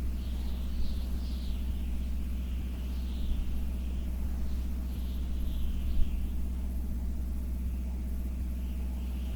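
Steady low mechanical rumble with a constant hum, and faint high warbling sounds now and then.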